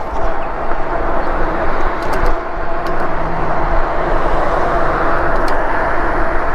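Wind rushing over the microphone and tyre noise from an e-bike riding along at speed, with a steady hum running underneath and a few light clicks.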